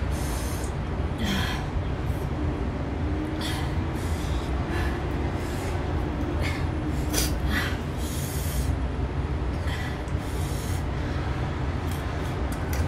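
Close-up eating sounds: young mango slices being bitten and chewed, a series of short crunchy, wet mouth noises scattered irregularly over a steady low hum.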